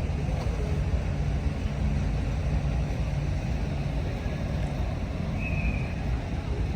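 Steady low rumbling outdoor background noise, with a brief faint high tone about five and a half seconds in.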